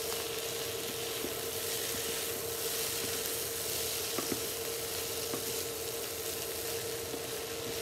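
Cauliflower fried rice sizzling in a nonstick skillet as it is stirred and broken up with two wooden spatulas, with a couple of light spatula taps. A steady faint hum runs underneath.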